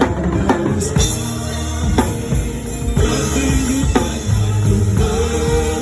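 Live gospel worship band playing: drum kit with kick and snare hits over bass and keyboard.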